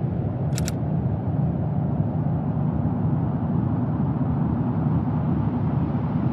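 Steady low rumble of wind noise in a Mars rover microphone recording, with one brief sharp click about half a second in.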